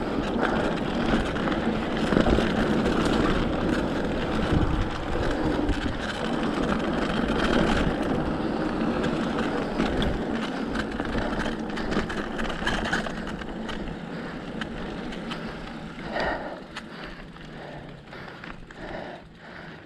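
Mongoose XR Pro e-bike riding over a dirt trail: steady tyre noise with frequent rattles and knocks from the bike, growing quieter over the last few seconds.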